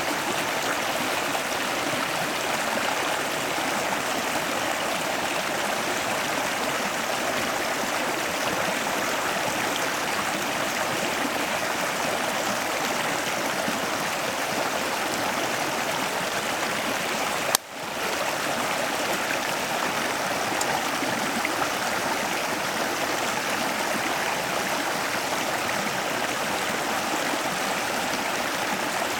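Steady rushing of flowing water, with a brief dropout a little past halfway.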